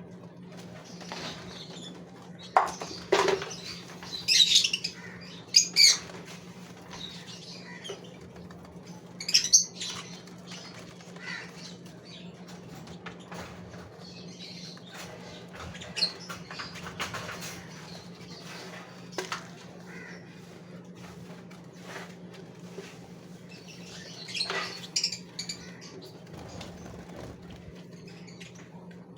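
Gouldian finches fluttering their wings in the cage in several short, loud flurries, with a few soft chirps between them. A steady low hum runs underneath.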